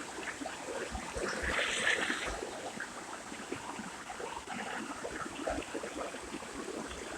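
Water trickling and running faintly, an uneven patter with small irregular splashes.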